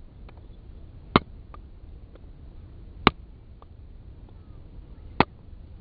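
Three sharp knocks about two seconds apart, with fainter clicks between them, over a low steady rumble.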